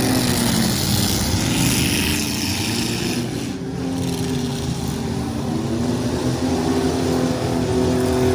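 Several full-size pickup truck engines revving and running hard in a demolition derby, their pitch rising and falling as they push and ram.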